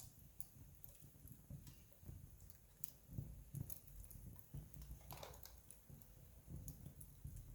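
Wood campfire burning faintly, with scattered irregular crackles and small pops.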